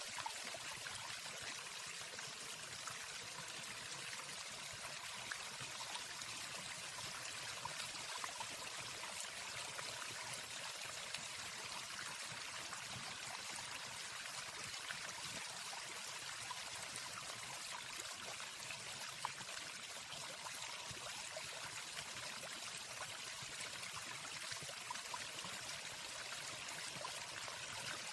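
Waterfall: a steady rush of falling water with a faint sprinkle of splashes, without any birdsong.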